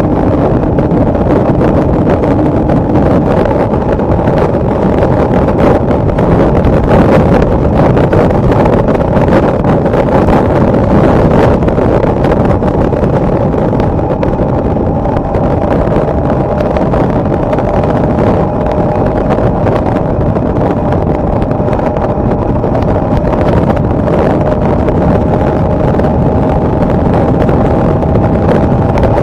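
Loud, steady wind rush on a motorcycle-mounted microphone at expressway speed in heavy rain and strong wind, over the steady drone of the motorcycle's engine.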